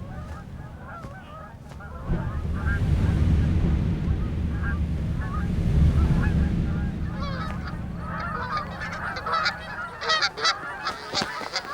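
A flock of geese honking, with many overlapping calls that grow denser and louder over the last few seconds, over a low rumble.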